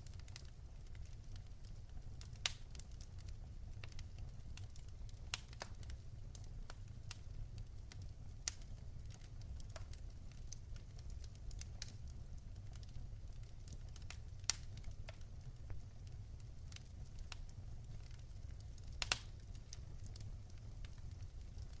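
Wood fire crackling in a fireplace: a steady low rumble of the flames with scattered sharp pops and snaps, a few louder pops among them.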